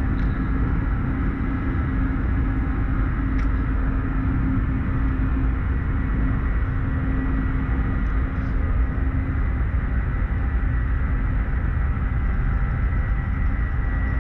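Steady drone of an aircraft's engines, an even low rumble carrying a held low hum and a higher held whine.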